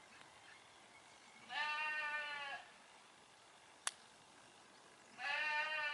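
An animal calling twice, each call a drawn-out bleat-like cry of about a second, separated by a single sharp click.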